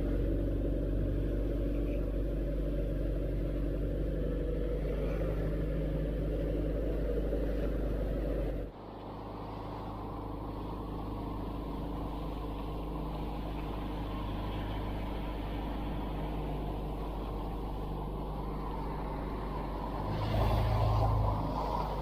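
Fishing boat's motor running steadily. About nine seconds in, its sound changes abruptly to a different, slightly quieter drone, and there is a brief louder surge near the end.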